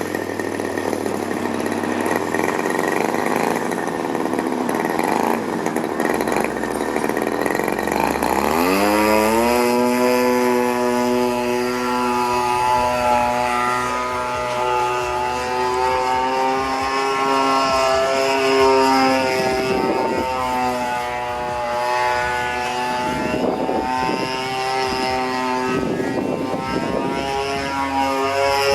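Single-cylinder two-stroke 26cc gasoline engine of an RC aerobatic airplane turning its propeller. It runs at low throttle, then about eight seconds in revs up sharply to a steady high-pitched buzz at full power. The revs dip briefly several times near the end.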